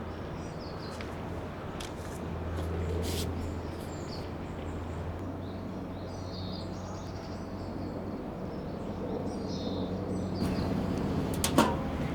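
Small birds chirping intermittently over a steady low rumble, with a few light clicks and one sharp knock near the end.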